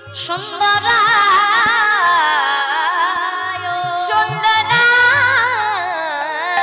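A woman singing a Sanskrit devotional verse in slow, ornamented kirtan style, her pitch wavering and gliding on long held syllables, over steady held accompanying notes.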